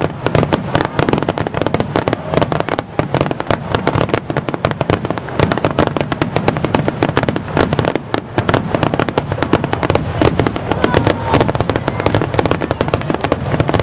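Fireworks barrage: many aerial shell bursts and crackles overlapping in a dense, unbroken run of reports.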